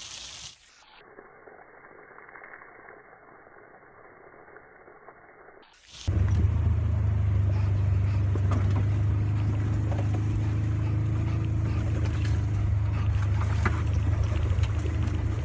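A vehicle running: a steady low rumble with a hum, starting suddenly about six seconds in after a quiet stretch.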